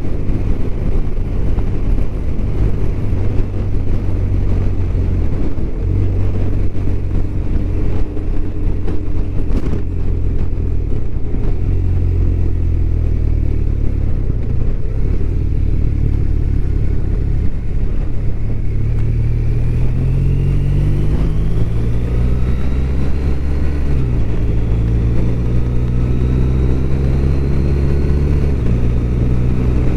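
BMW R1200RT's boxer-twin engine running under way, heard from the bike, its note climbing as it accelerates about two-thirds of the way through, then dropping sharply twice near the end as gears change.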